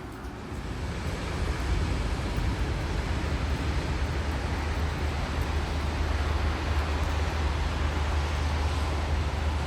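Steady outdoor noise of rain with wind rumbling on the microphone: an even hiss over a deep rumble, growing a little louder about a second in.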